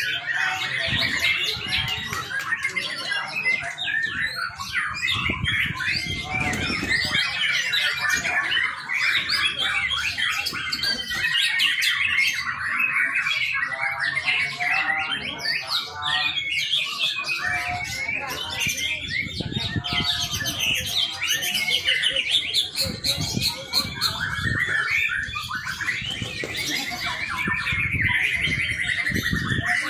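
Young white-rumped shama singing a continuous, varied song of rapid chirps, trills and whistles.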